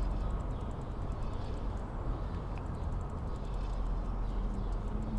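Bicycle wheel spinning with a quick, even, faint ticking, over a steady low background hum. It is being spun to find where the out-of-true rim rubs the brake pads.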